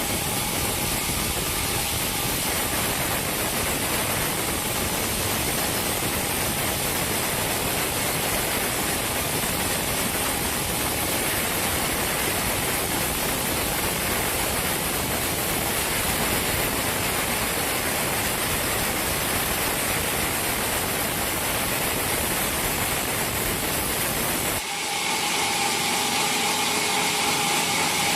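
Sawmill machinery running with a loud, steady hiss. Near the end the sound switches abruptly to a humming saw with steady tones.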